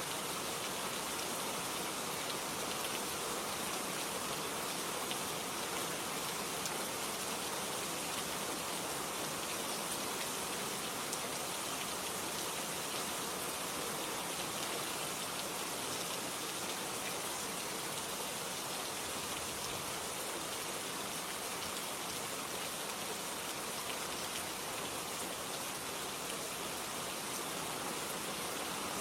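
Steady rain falling: an even hiss with many small drop ticks, never changing in strength.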